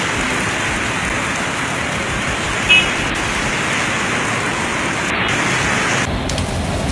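Heavy rain pouring onto a flooded street, a steady hiss, with one short sharp sound about three seconds in. About six seconds in, the rain turns duller and lower.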